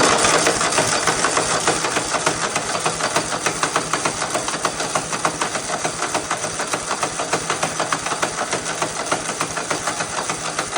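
Kohler V-twin engine of a Husqvarna RZ5424 zero-turn mower running steadily with a rapid, even pulse. It is running again after a no-start fix of new spark plugs and fresh fuel and air filters.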